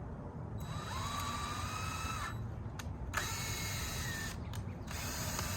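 Power drill running in three short bursts, its motor whine climbing as it spins up each time, as screws are driven or backed out of the chicken tractor's wooden door frame.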